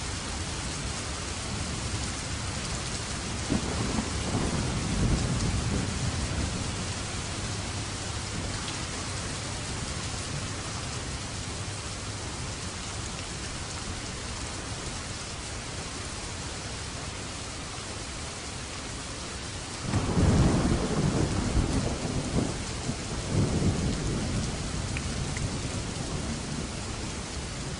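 Steady heavy rain with two rolls of thunder: a rumble building about four seconds in, and a louder crack and long rolling rumble about twenty seconds in.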